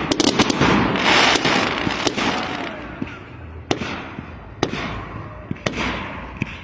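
Fireworks going off: a quick run of sharp bangs with a crackling hiss, then single sharp bangs about once a second.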